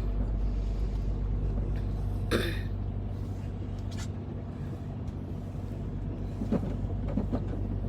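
Semi truck's diesel engine running with a steady low hum, heard from inside the cab while the rig backs slowly to a loading dock, with one short sharp noise about two and a half seconds in and a few faint clicks.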